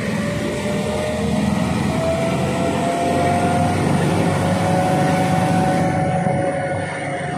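Passenger train running slowly, heard from an open carriage window: a steady rumble with a thin whine that drifts slightly upward in pitch.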